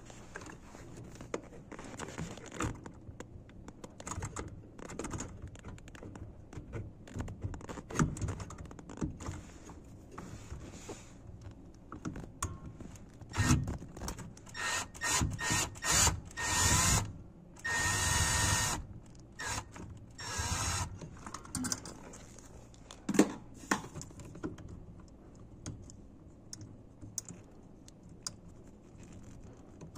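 Power drill or driver running in short bursts, several in a row about halfway through, amid clicks and knocks of tools and parts being handled during appliance repair work.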